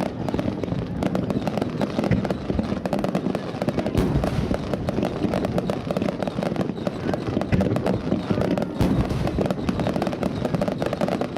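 A fireworks display with shells going off in quick succession: many sharp bangs and crackles run together, and a few louder booms stand out, about four seconds in and again near nine seconds.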